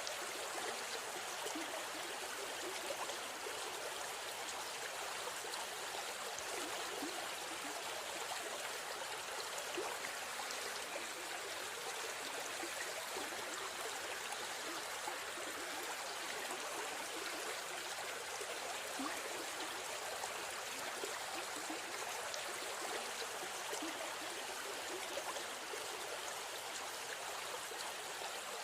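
River stream flowing steadily, a continuous rushing and trickling of water.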